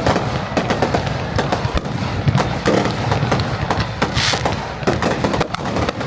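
Fireworks going off in rapid succession: a dense crackle of many small pops and bangs, with a brief hiss about four seconds in.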